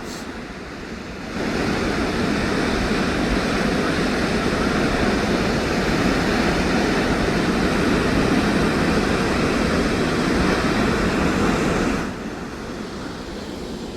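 Steady rush of white water from the Waikato River pouring through Huka Falls. It comes in abruptly about a second in and drops away sharply near the end.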